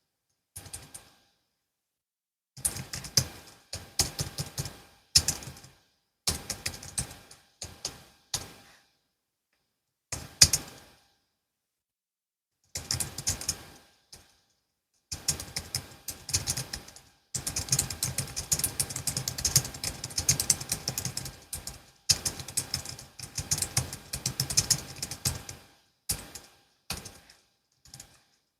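Typing on a Logitech MX Keys S low-profile scissor-switch keyboard: bursts of rapid key clicks broken by short pauses, with a long unbroken run of fast typing in the second half.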